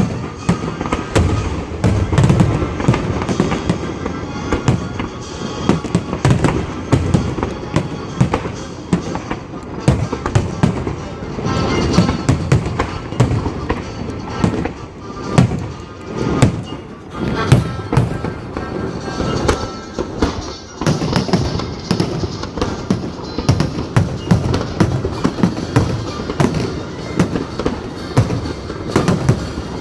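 Fireworks display: a dense, continuous run of bangs and crackles, many shells bursting close together, with music playing underneath.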